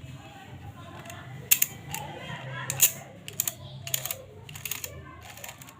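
Toy cars clicking and clattering against one another as they are handled, a dozen or so sharp, irregular clicks.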